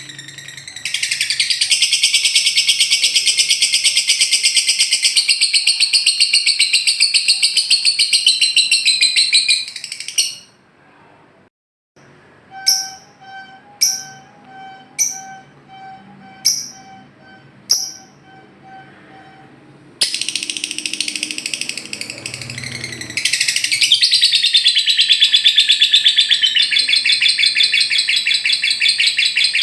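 Lovebird ngekek: long, loud, rapid high-pitched chattering trills. They break off for a couple of seconds, give way to about six short, sharp chirps over a steady tone, then resume.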